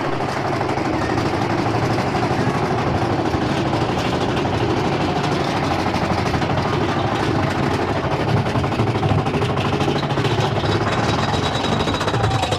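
Mine-train roller coaster running along its track, a steady rattling rumble with rapid clatter from the cars and rails.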